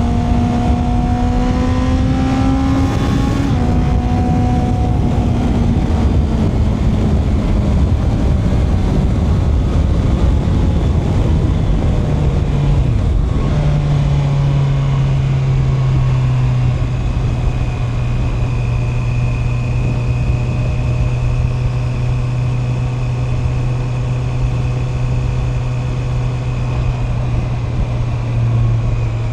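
Honda CB650R inline-four motorcycle engine riding on the road: revs rise briefly, then fall away slowly for several seconds. After a gear change about halfway through, it holds steady, lower revs.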